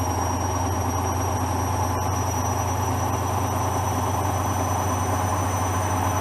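Hoover washing machine on a spin cycle with a bedding load, its drum turning at speed with a steady low hum and whirr.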